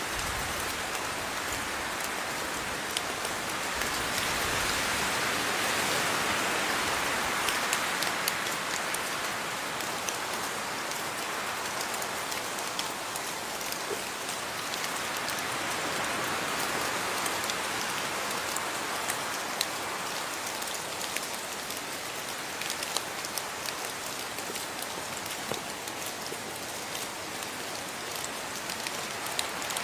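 Steady rain falling, an even hiss with scattered drop ticks, swelling a little for a few seconds near the start.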